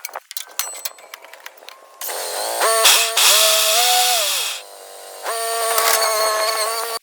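Light metallic clicks, then a handheld power tool runs loudly on a mower blade bolt. It spins up about two seconds in with a rising whine and runs about two and a half seconds. After a brief pause it runs again for almost two seconds near the end.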